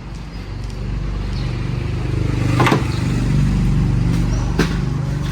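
Car engine of a Lanos running steadily, swelling a little over the first few seconds, with two short sharp clicks partway through.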